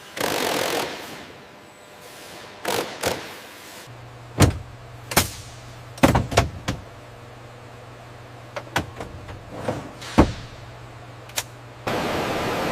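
A short hiss, then a series of sharp knocks and clanks, irregularly spaced, over a low steady hum that sets in about four seconds in. Near the end a steady rushing noise starts abruptly.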